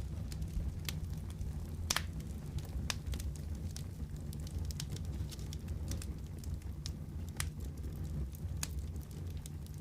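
Wood fire crackling in a fireplace: irregular sharp pops and snaps, several a few seconds apart, over a steady low rumble.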